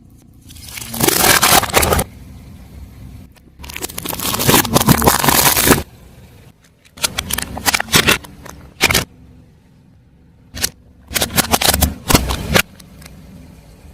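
Car tyre rolling over and crushing objects: several separate bursts of crunching and crackling, with short quieter lulls between them.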